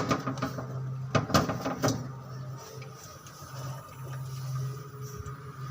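Low steady machine hum with a cluster of sharp clicks and knocks at the start and again about a second in.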